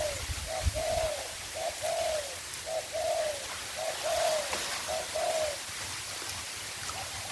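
Spotted dove cooing: a repeated short note followed by a longer, arching coo, about once a second, six times over, stopping near the end.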